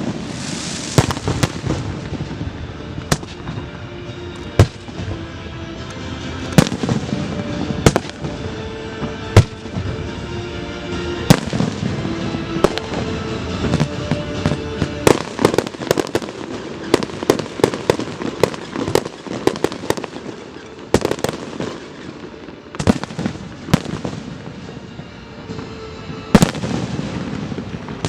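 A fireworks display: repeated sharp bangs, with quick clusters of reports about halfway through, over a continuous crackle, with music playing underneath.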